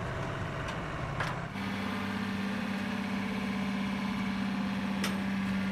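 Vehicle engine idling, a low rumble that settles into a steady hum about a second and a half in.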